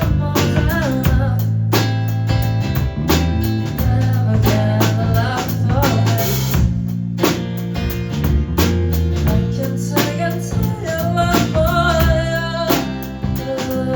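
A live band playing a song: a singer's voice over a drum kit with regular beats and a low, steady instrumental accompaniment.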